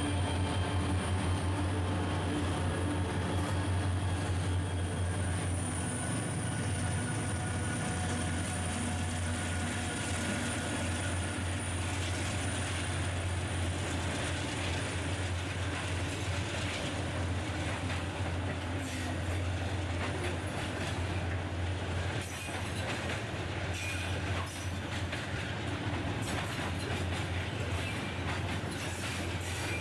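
Freight train passing: a diesel locomotive's steady low rumble with wheel squeal. From about two-thirds of the way in, wagon wheels click over the rail joints.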